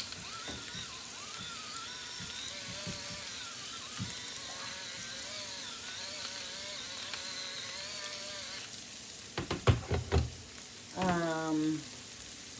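Mushrooms sizzling as they fry in a pan, with a few loud knocks of a utensil against cookware about nine to ten seconds in.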